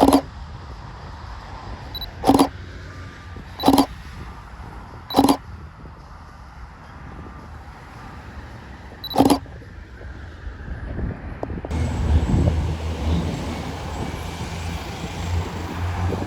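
Five short, sharp knocks spaced a few seconds apart, then a low engine rumble building up over the last few seconds.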